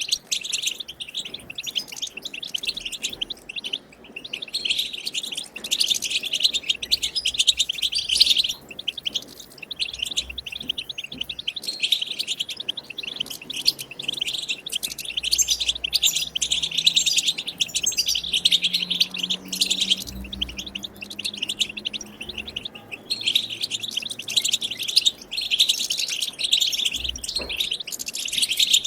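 Wild European goldfinch song: rapid, continuous twittering and chattering with a few brief pauses, the kind of chatter played to stimulate caged goldfinches to sing.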